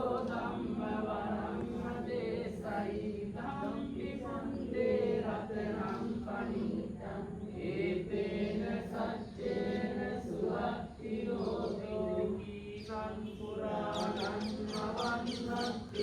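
Buddhist Pali chanting: sung, drawn-out verse lines over a steady low hum, with a run of fine high clicks near the end.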